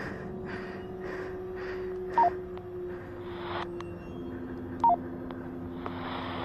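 Handheld two-way radio (walkie-talkie): short two-tone roger beeps, high then low, about two seconds in and again near five seconds, with bursts of static hiss as the squelch opens, over a steady hum.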